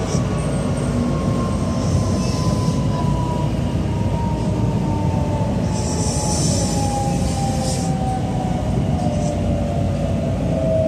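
Inside a JR Osaka Loop Line commuter train running on the track: a steady rumble of wheels and car body, with a motor whine that falls slowly in pitch as the train slows. Brief high hisses come about two seconds in and again for a couple of seconds past the middle.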